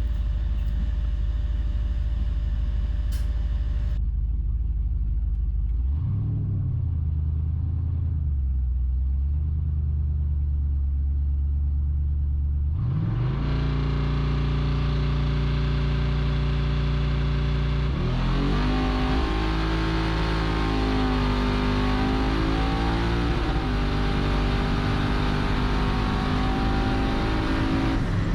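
Twin-turbo LS V8 in a GMC pickup heard from inside the cab on a drag pass: the engine rumbles and builds revs on the line, launches about halfway through, then pulls hard with the pitch jumping at two gear changes a few seconds apart. The driver says he hit the rev limiter on the 2-3 shift on this pass.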